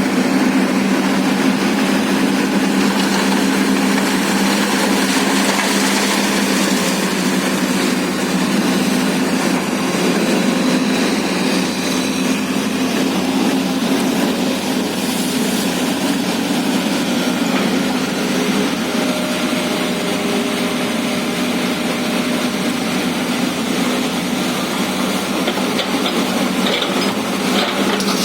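Excavator's diesel engine running steadily under work, with a few faint knocks near the end.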